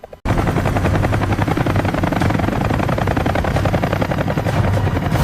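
Helicopter in flight, its rotor blades beating fast and evenly over a steady low drone; the sound cuts in suddenly a moment after the start.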